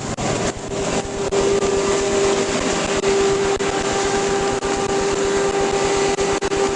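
Steady vehicle noise: a constant hiss with a single held hum that does not change in pitch.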